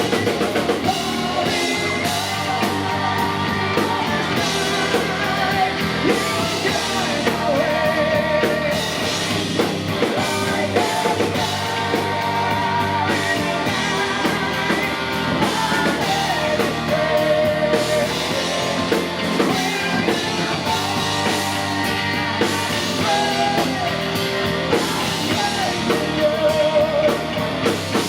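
A heavy metal band playing live: distorted electric guitars and a drum kit driving on, with a singer's vibrato-laden lead vocal over the top.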